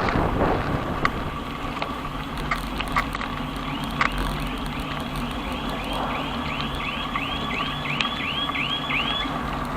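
Steady low street rumble of passing traffic during a bicycle ride, with a few scattered clicks. From about four seconds in, a high squeak that rises and falls repeats about two and a half times a second for some five seconds, then stops.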